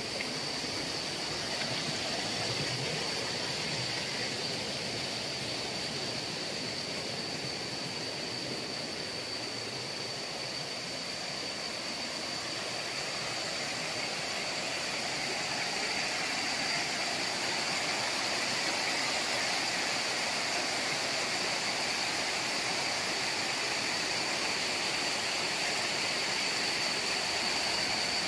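Waterfall: steady rushing water, with a thin, steady high-pitched whine over it. The water grows slightly louder about halfway through.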